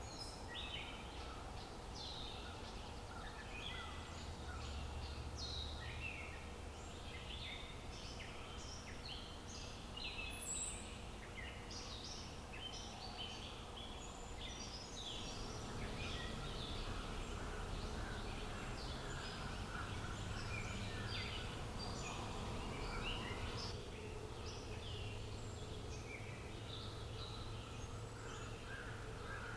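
Many small birds chirping and singing over a steady outdoor background hiss.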